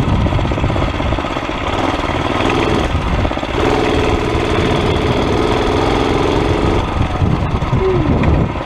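Murray mini bike's small single-cylinder Tecumseh 2.5 hp engine running under way during a ride, with its pitch held steady through the middle and changing near the end. It is running without an air cleaner after a carburetor clean.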